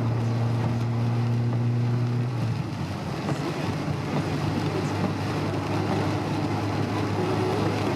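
Honda S2000 on the move, heard from inside the cabin: a steady engine hum under a constant rush of tyre and wind noise. The engine note changes about two and a half seconds in.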